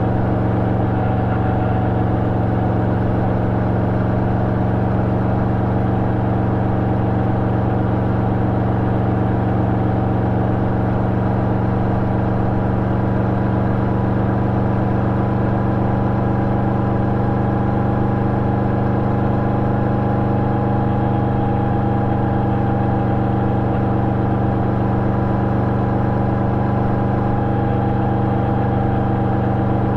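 Yamaha Vmax 1700's V4 engine running at a steady, unchanging speed through an Akrapovic exhaust fitted with a dB-killer.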